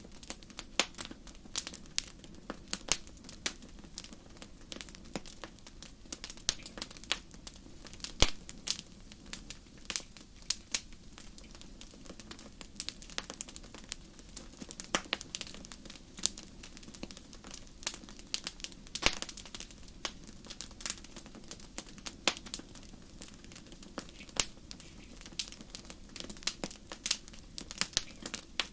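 Wood fire crackling in a fireplace: irregular sharp pops and snaps, several a second, over a low steady hiss of burning.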